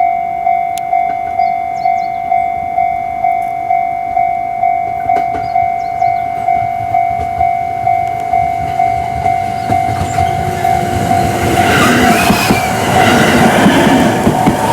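Railway level-crossing warning bell ringing, a repeated electronic ding about every 0.7 s. From about ten seconds in, an electric commuter train approaches and passes, its running noise growing loud and covering the bell.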